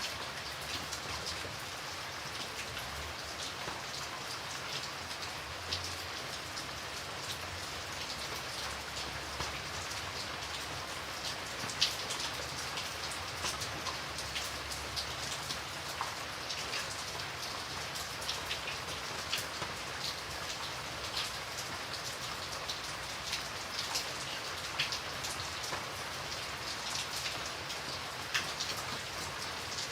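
Steady rain falling, a continuous hiss with many individual drops pattering on a surface.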